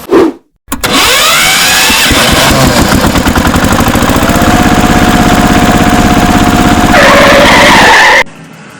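A small engine starting and running with a rapid, even pulsing beat, its pitch rising briefly as it catches. It cuts off abruptly near the end.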